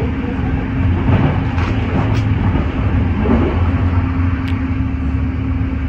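Steady running noise inside a passenger train at speed: a rumble of wheels on rails with a constant low hum and a few faint clicks.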